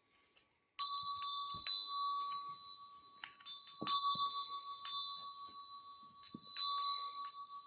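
A bell rung with about nine quick, irregular strikes that begin just under a second in, its ring carrying on between them.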